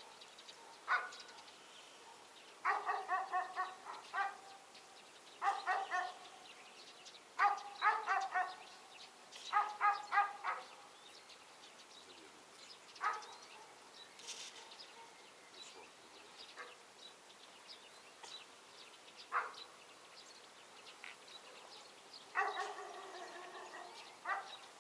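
A dog barking, in quick runs of short barks with pauses between the runs.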